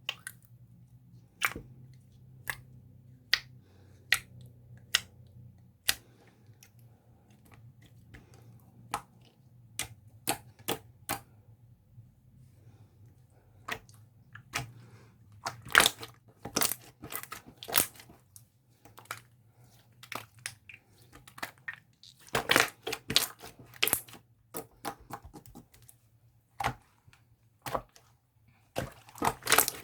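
Jiggly slime being pressed and squeezed by hand, giving sharp clicks and crackling pops. They come about one a second at first, then in dense clusters from about halfway, over a faint low hum.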